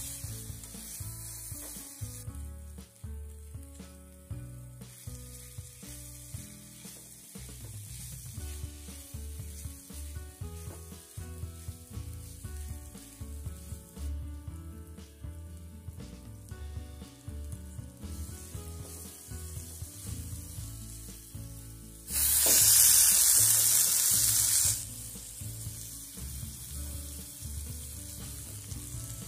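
Shallots, green chillies and curry leaves sizzling in hot oil in a black kadai while being stirred. About 22 seconds in, a much louder burst of sizzling lasts nearly three seconds, as raw chicken pieces go into the hot pan.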